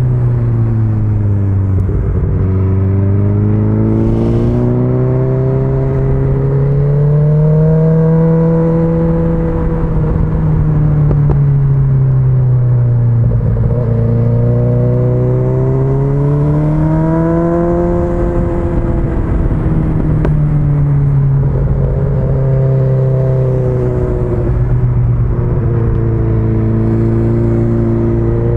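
BMW S1000XR's inline-four engine under way, its pitch dropping as the bike slows and climbing again as it accelerates, over and over, with a steady rush of wind beneath.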